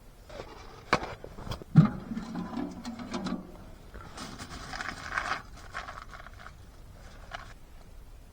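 Handling noise of objects being moved about: sharp clicks and a loud knock about two seconds in, then a stretch of scraping and rustling.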